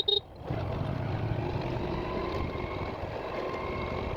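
Steady vehicle and road noise heard while riding, with a brief loud beep at the very start.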